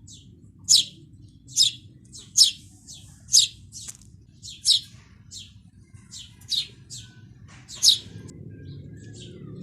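A bird chirping repeatedly: short, sharp, high calls that fall in pitch, about one a second, with fainter calls between, stopping near the end. A steady low background rumble lies underneath.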